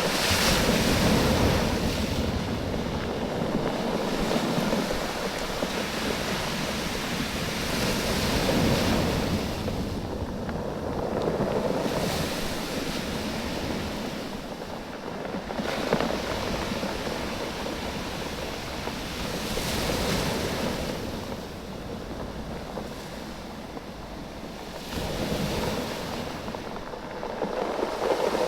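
Small waves washing in and out over a beach of rounded oval stones, the stones clacking against one another as the water flows and ebbs. The wash swells and fades in surges every few seconds.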